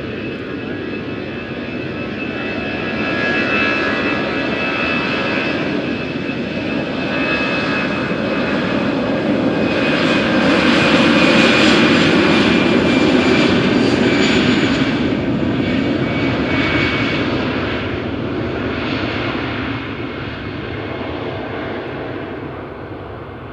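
Airbus A320 jet engines at high power passing close by on the takeoff run: a loud roar with a high whine that swells to a peak about halfway through, then fades away.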